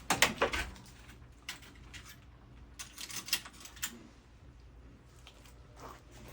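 Small hard metal tools being handled and sorted, giving sharp clicks and light rattles: a quick flurry of clicks at the start, then scattered single taps. The clicking is the search through a set of Torx bits for a T30.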